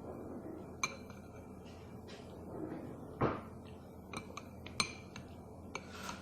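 Cutlery clinking against dishes during a meal: several light clinks with a short ring, and one louder knock about three seconds in.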